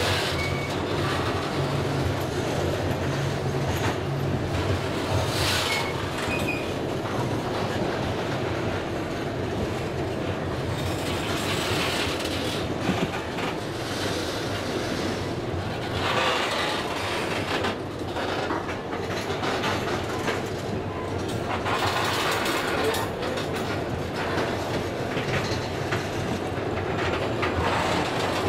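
Covered hopper cars of a long freight train rolling past at close range: steady noise of steel wheels on rail, with repeated clicks as the wheels pass over rail joints.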